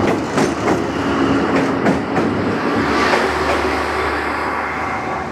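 Passenger train rolling past: a steady rumble of carriage wheels on the rails, with a few sharp clacks scattered through.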